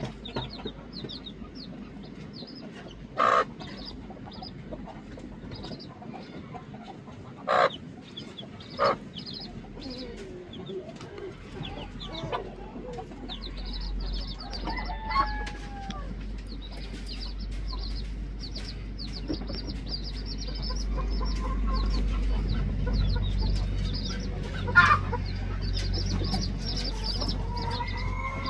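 Chickens clucking and calling, with a few short, loud squawks standing out, against rapid high chirping throughout. A low rumble builds from about halfway in.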